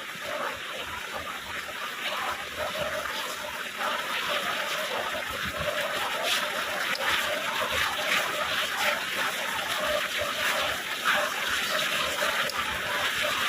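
Heavy rain falling steadily, a dense patter of many small drop splashes.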